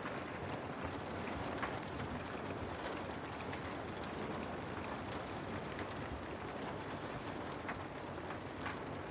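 Steady rain falling, an even hiss, with a few louder single drops striking close by now and then.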